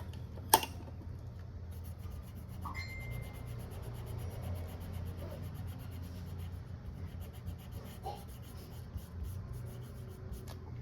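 Faint rubbing and scraping of hand work on a smartphone during a screen repair, with a sharp click about half a second in, over a steady low hum.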